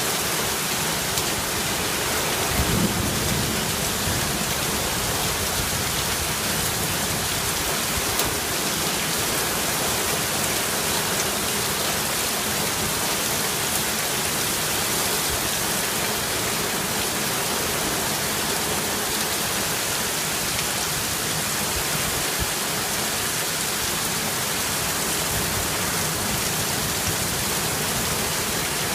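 Heavy rain falling steadily, an even hiss with no breaks, with a short low thud about three seconds in.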